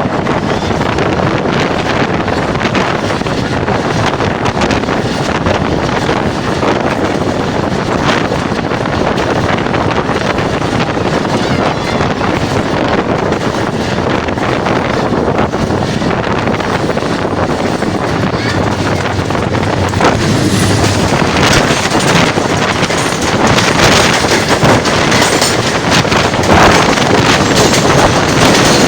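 Karachi Circular Railway passenger train running at speed: a steady rush of wheel and ride noise with wind on the microphone, growing louder about two-thirds of the way in.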